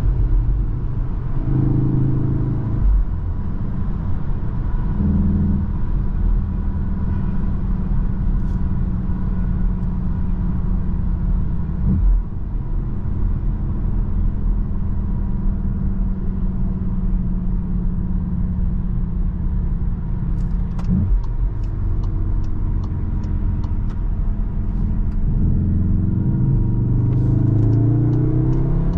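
Cupra Formentor VZ5's turbocharged five-cylinder engine cruising steadily under road and tyre noise, heard from inside the cabin. The engine note shifts briefly in the first few seconds, and near the end the revs climb as the car accelerates. Two short runs of light quick ticks come in the last third.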